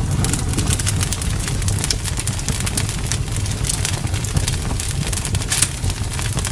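Bonfire burning: a steady low rumble with frequent sharp crackles and pops, one louder pop near the end.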